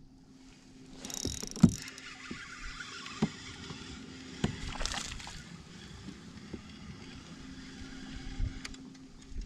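Fishing from a kayak: several sharp knocks of gear against the hull, the loudest about one and a half seconds in, and a rushing, swishing noise for the first few seconds, over a faint steady hum.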